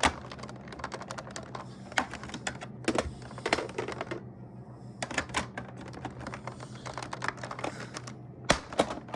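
Plastic parts of a Shark upright vacuum clicking, tapping and rattling irregularly as a part is worked back into place, with several louder knocks. A low steady hum runs underneath.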